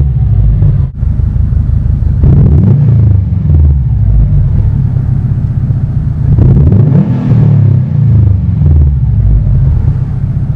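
2015 Subaru WRX STI's turbocharged 2.5-litre flat-four running through a Cobb cat-back exhaust, its pitch rising and falling several times as the engine speed changes. There is a brief break in the sound about a second in.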